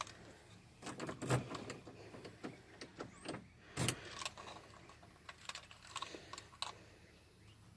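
A bunch of car keys jangling and clicking as they are picked up and handled, with scattered small knocks.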